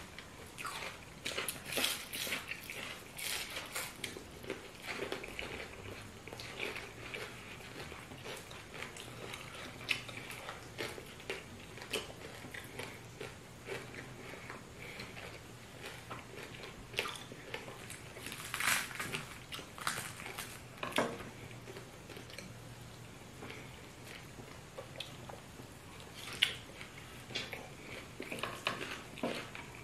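Close-up eating sounds: chewing, mouth smacks and small crunches as banku and fried fish are eaten by hand, in irregular bursts.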